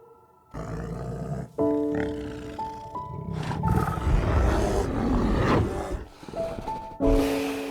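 A large animal growling and roaring in several rough, low bursts, starting about half a second in, over soft piano music.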